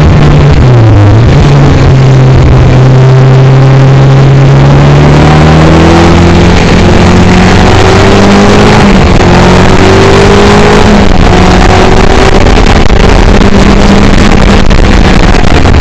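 Caterham Seven engine under hard acceleration, its note climbing steadily through the revs. There is a drop in pitch about a second in and an upshift about nine seconds in, after which it pulls again. The engine is very loud, with a constant rush of road and wind noise over the open car's onboard camera microphone.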